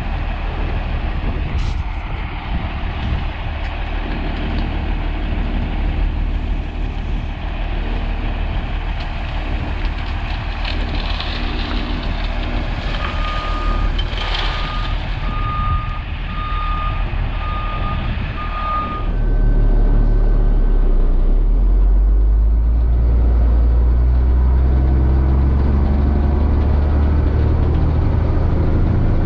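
Diesel truck engine running steadily while a reversing alarm beeps about once a second, six times. Right after the beeping stops, the engine rumble turns much louder and deeper.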